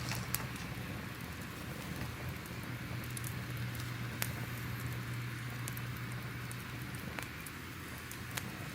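Crackling fire: scattered sharp pops and snaps over a steady low rumble.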